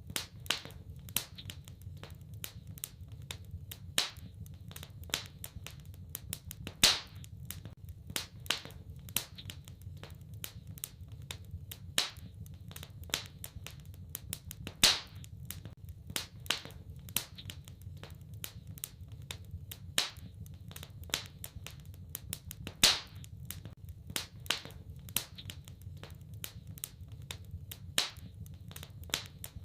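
Wood fire in a fireplace crackling steadily, with sharper, louder pops every few seconds over a low steady rumble.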